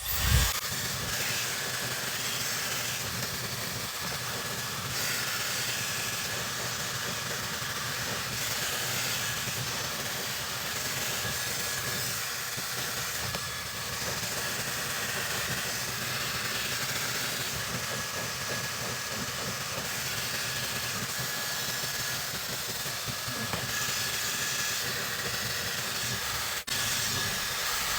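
Handheld hair dryer running steadily while blow drying hair: a constant rush of air with a faint high whine from its motor.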